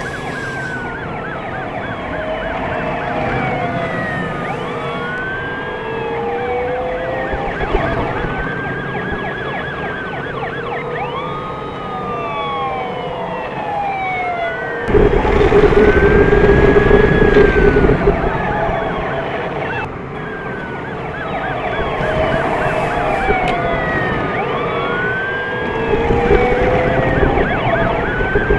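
Several emergency-vehicle sirens wailing at once, their rising and falling tones overlapping. A louder steady low drone joins about halfway through for a few seconds and again near the end.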